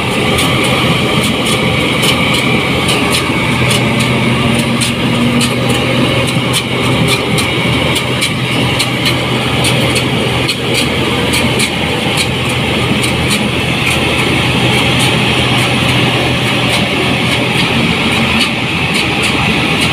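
New Holland 8060 combine harvester running steadily, a constant heavy engine drone with frequent sharp clicks and rattles over it.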